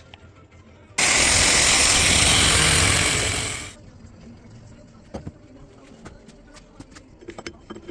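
A loud rushing hiss that starts suddenly about a second in, holds steady for nearly three seconds and then tapers off, followed by a few light knocks and clicks.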